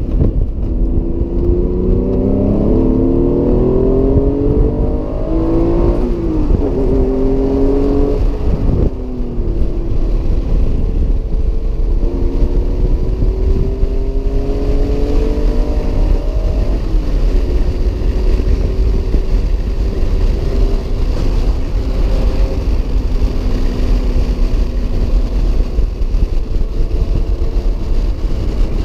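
Acura NSX's mid-mounted V6, heard from inside the cabin while lapping a race track. The engine note climbs in pitch under throttle, dips about six seconds in and climbs again, falls away near nine seconds, pulls up once more, then holds a lower, steadier note through the second half, over constant road rumble.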